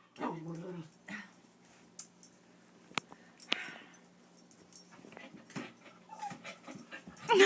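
A dog whining and whimpering in short, broken sounds, frustrated at a toy she wants but cannot get, with a few light clicks in between and a louder bark near the end.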